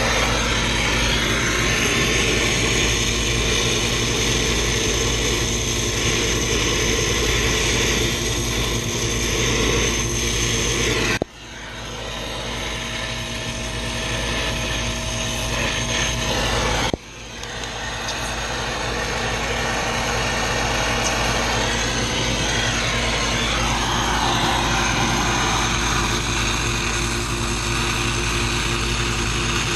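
Steady, loud machine running noise with a constant hum. It cuts out sharply twice, about a third and halfway through, and each time builds back up over a few seconds.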